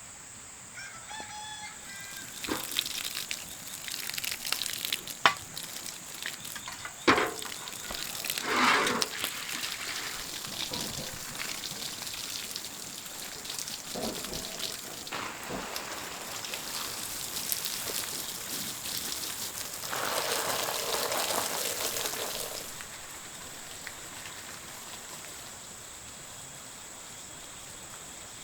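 A rooster crows briefly near the start, over a steady high drone of insects. Scattered knocks, clatter and rustling follow, with a denser hissing stretch of a couple of seconds before it settles back to the insect drone.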